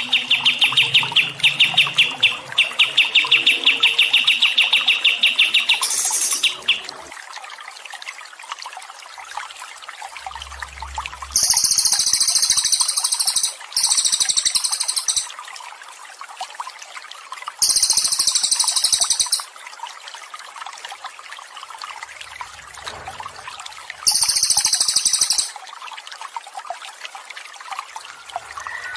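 A bird's fast repeated trill for about six seconds, then three high buzzy bursts of a second or two each, over a steady trickle of water.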